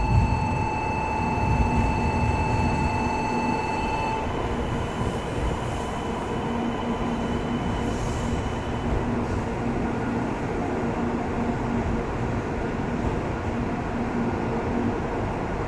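JR West 700 Series 7000 'Rail Star' Shinkansen train running along the platform, a steady rumble of the passing cars. A steady high electronic tone sounds over it and stops about four seconds in.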